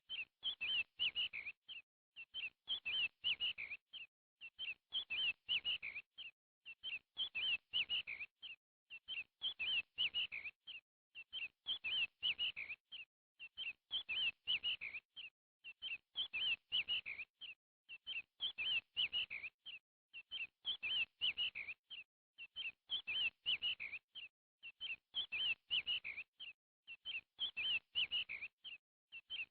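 Bird chirping: short bursts of quick high chirps that repeat at an even pace, about one burst every two seconds, with silence between them.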